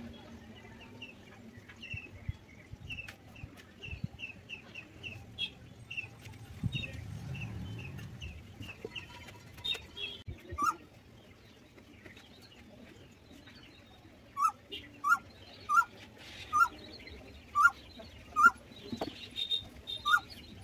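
Birds calling in the background: a run of short high chirps about two a second, then, from about two-thirds through, a series of about eight louder, lower calls evenly spaced under a second apart.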